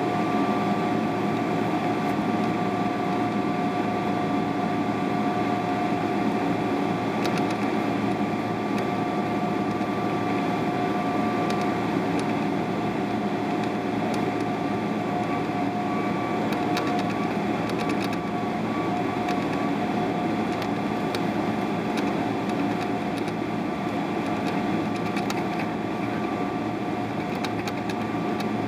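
Steady cabin noise inside a Boeing 777-300ER: an even rushing hum of engines and air-conditioning, with two steady whining tones running through it and a few faint clicks.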